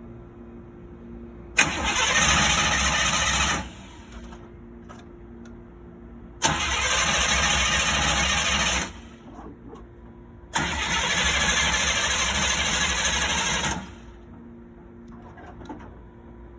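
Chevy pickup's starter cranking the engine in three tries of two to three seconds each, each starting with a sharp click, without the engine catching. The owner blames a failing fuel pump and a weak battery after the truck sat unstarted for about four months.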